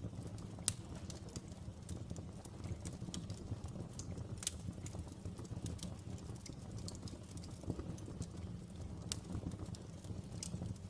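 Outdoor fire crackling: a steady scatter of small sharp pops over a low steady rumble, with a few louder pops about a second in, midway and near the end.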